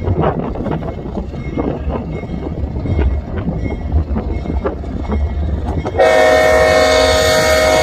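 A freight train rolls by with sharp clicking from its wheels over the rails. About six seconds in, a locomotive air horn starts a loud, sustained chord of several notes.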